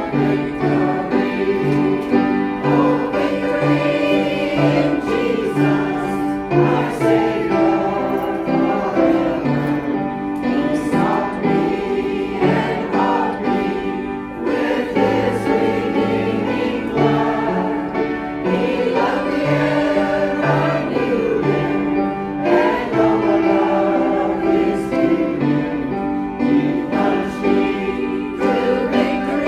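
Choir singing a song over instrumental accompaniment, with a repeating pattern of low bass notes underneath the voices.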